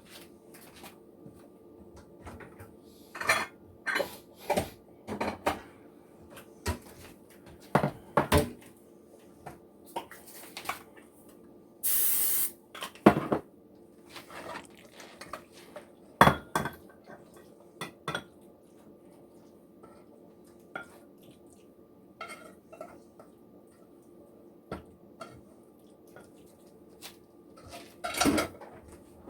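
Spoon and cookware clinking and knocking at irregular intervals while macaroni and cheese is dished into small cast iron pans and a ramekin, with a brief hiss about 12 seconds in and a faint steady hum underneath.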